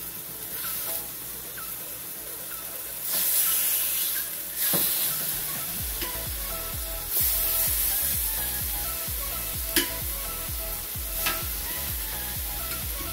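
Chicken thighs sizzling in hot oil in a frying pan as more pieces are laid in. The sizzle swells loudly twice, and there are a few sharp clicks near the middle and end.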